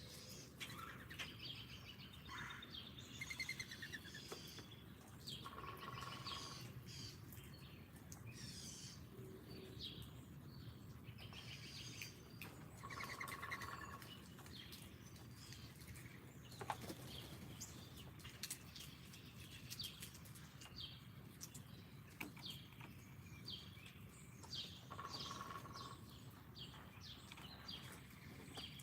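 Several small songbirds chirping and calling at a feeder, with quick high chips throughout and one bird repeating the same short phrase three times. A faint steady low rumble sits underneath.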